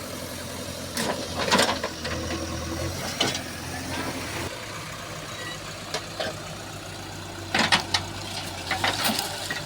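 A vehicle engine running at a steady idle, with scattered sharp knocks and clatters; the low hum of the engine changes about halfway through.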